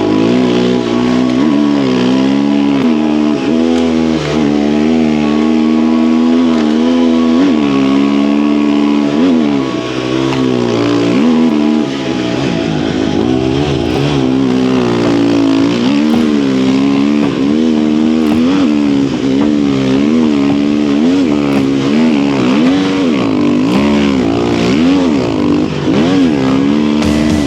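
Snow bike engine running under throttle as it climbs a trail, revving up and down over and over with the pitch rising and falling every second or two.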